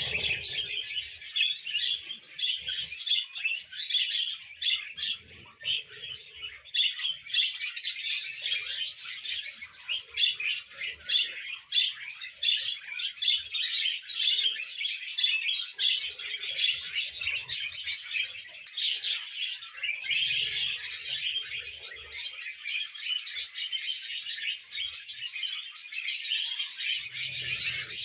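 Baby budgerigar chirping and chattering continuously in a fast, high twitter.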